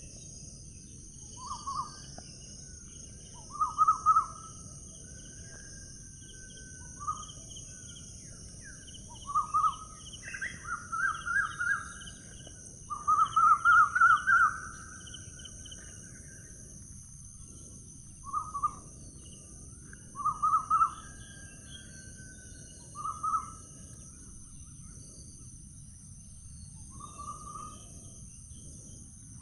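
A bird giving harsh, rapidly pulsed calls in short bursts, about a dozen times, the longest and loudest about halfway through, over a steady high-pitched hiss.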